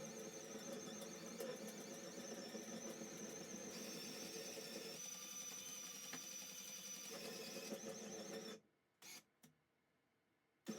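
Two cordless-drill motors driving worm-gear cable winches, running with a steady high whine as the bed is raised, the footage played at double speed. The tone shifts about halfway through, then the sound cuts off abruptly near the end, leaving near silence with two brief blips.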